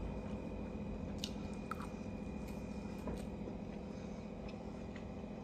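A person chewing a mouthful of cheesy ramen noodles: soft chewing with a few faint clicks, over a steady low hum.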